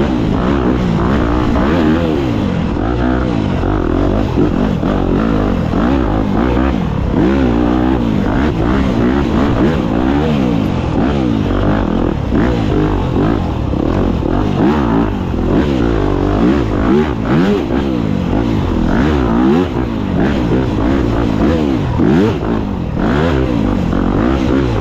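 Dirt bike engine being ridden hard on a woods trail. The revs climb and drop again and again, about once a second, as the rider works the throttle.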